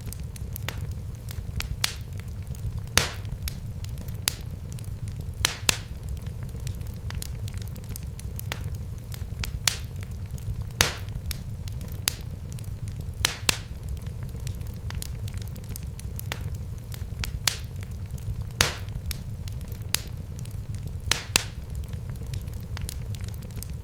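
Fire in a fireplace crackling: irregular sharp pops and snaps, several louder ones among many small ticks, over a steady low rumble of the flames.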